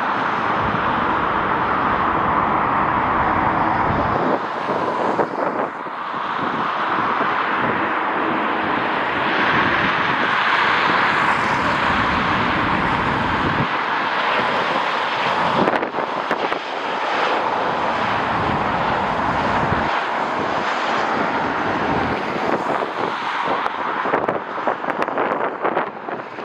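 Jet airliner engine noise, a steady rushing sound that holds throughout, with strong gusty wind buffeting the microphone in irregular low rumbles.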